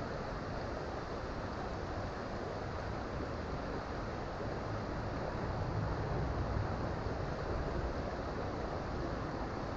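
Creek water rushing and splashing steadily, a little fuller for a few seconds in the middle.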